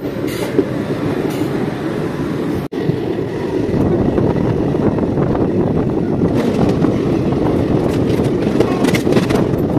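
Indian Railways passenger train running, heard from on board: a loud, steady rattling noise of the moving coaches. The sound cuts out for an instant nearly three seconds in.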